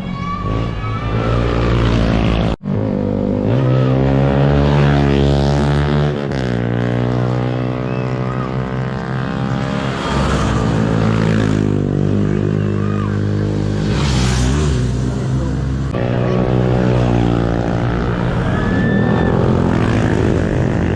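Motorcycle engine running under way, its pitch rising and falling as the throttle opens and closes, with a brief cut-out about two and a half seconds in.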